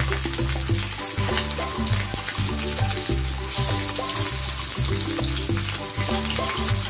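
Boneless chicken pieces sizzling as they start to fry in hot oil in a kadai, a steady hiss. Background music with a repeating bass line plays over it.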